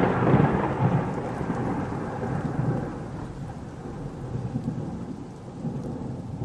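A long rumble of thunder fading away, with a steady hiss like rain beneath it.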